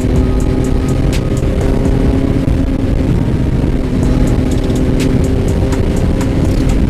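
Yamaha MT-09's inline three-cylinder engine running at a steady cruising speed, with heavy wind rumble on the microphone.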